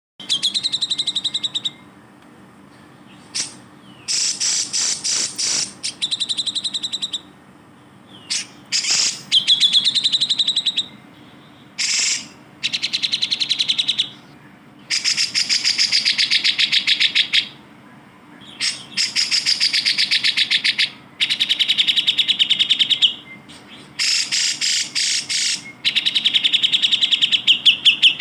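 Grey-cheeked bulbul (cucak jenggot) singing: repeated bursts of fast chattering trills, each lasting one to three seconds, with short pauses between.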